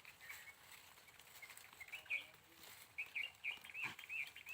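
A small bird chirping: one short chirp about two seconds in, then a quick run of short chirps near the end.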